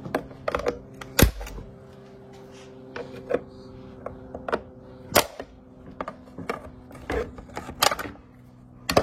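Irregular sharp clicks and knocks of plastic and metal parts as a Husqvarna 445 chainsaw is handled and opened up, the loudest knock about a second in, over a faint steady hum.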